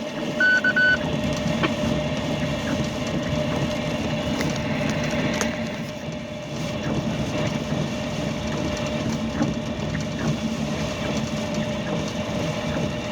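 Steady vehicle rumble from inside a truck cab, with a short double electronic beep about half a second in.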